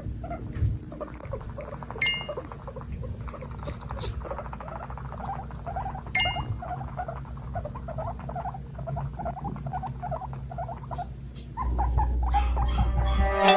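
Guinea pigs quarrelling, making a rapid run of short calls, several a second. A louder low noise comes in near the end.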